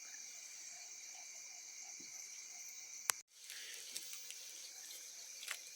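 Steady high-pitched chorus of crickets and other insects trilling without a break. A single sharp click comes about three seconds in, and the sound cuts out for an instant just after it.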